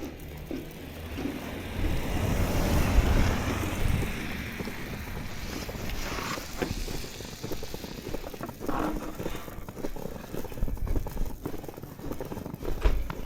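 Footsteps crunching through fresh snow. A broad rushing sound swells and fades in the first few seconds.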